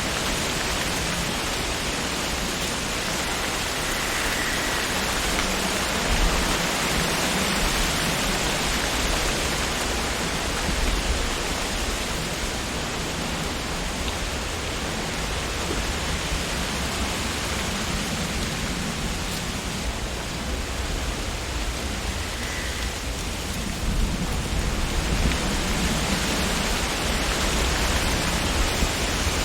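Wind blowing through tree leaves: a steady rushing rustle with a low rumble underneath, swelling slightly now and then.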